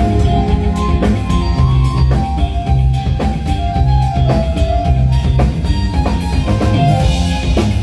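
A band playing amplified through a PA system: drum kit with kick drum, bass and guitar in a steady, loud groove.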